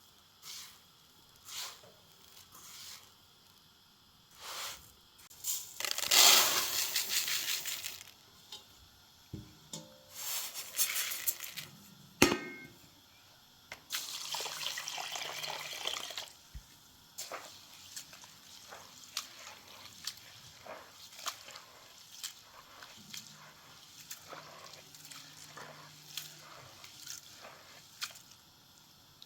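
Splashing water in three bursts of one to two seconds, amid scattered small clicks and knocks.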